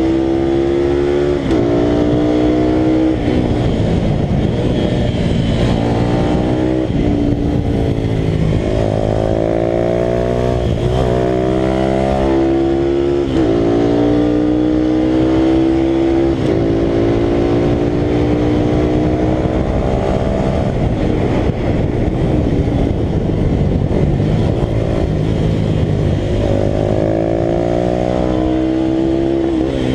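Italika RT200 single-cylinder motorcycle engine running hard under race acceleration, its pitch climbing through the revs and dropping sharply at each gear change, several times over. Steady rushing wind and road noise runs underneath.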